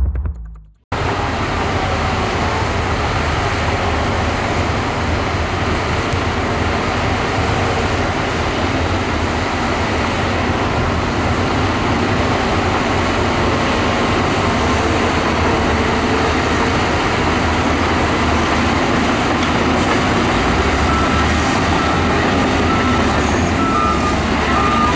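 Diesel engines of a bulldozer and dump trucks running steadily under load while moving sand, with a constant low rumble. Near the end a reversing alarm beeps at an even pace, a little over one beep a second.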